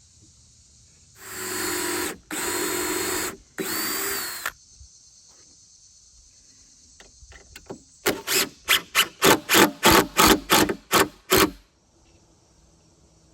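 A handheld power tool motor run in three short bursts of about a second each, with a steady whine, followed a few seconds later by a quick run of about a dozen short pulses.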